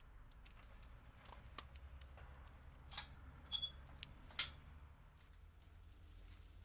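Faint low room hum with scattered small clicks and taps, three sharper ones between about three and four and a half seconds in.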